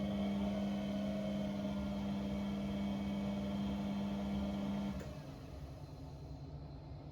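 An appliance's electric pump motor hums steadily at one pitch, then cuts off suddenly about five seconds in, leaving only a low background rumble.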